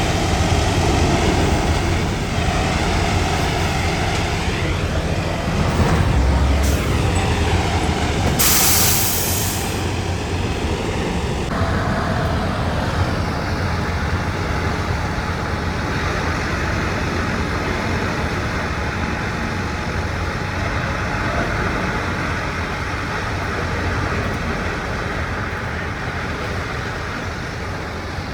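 Logging truck's diesel engine running steadily, with a short loud hiss of air about nine seconds in.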